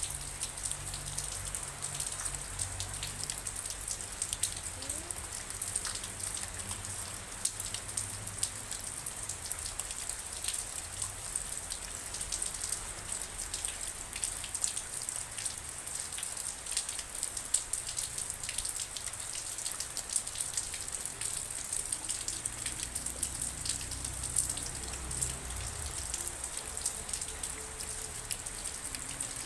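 Steady rain falling, with many separate drops ticking sharply on a hard surface over an even hiss, and a low rumble underneath at times.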